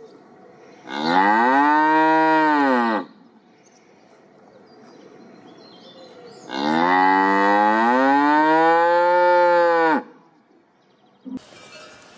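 Cow mooing twice, two long calls. The first comes about a second in, lasts about two seconds and rises then falls in pitch. The second is longer, starting about six and a half seconds in, lasting about three and a half seconds, and drops in pitch at its end.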